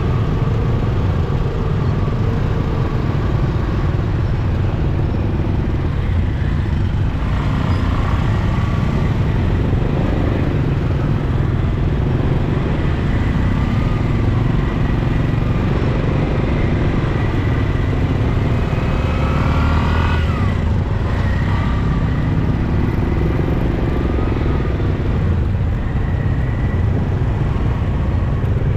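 Motorcycle riding in city traffic: steady engine and road noise under a heavy low rumble. Engine tones rise and fall as it speeds up and slows, with a brief higher gliding tone about twenty seconds in.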